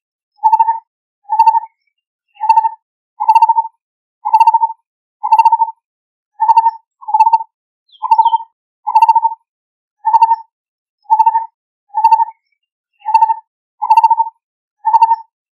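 Lineated barbet calling: one short note repeated steadily about once a second, now and then two coming close together.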